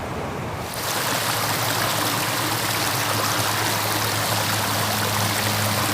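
River water flowing, a steady rushing that cuts in less than a second in, with a low steady hum beneath it.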